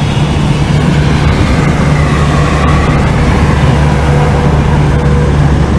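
Steady drone of a 1969 VW 1500 Beetle's air-cooled flat-four engine and road noise, heard from inside the cabin while driving at a constant speed.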